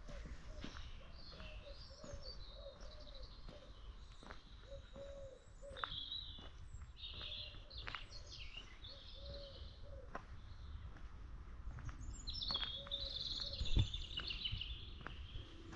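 Songbirds chirping and trilling in bursts, over a low, short note repeated about twice a second, with one low thump late on.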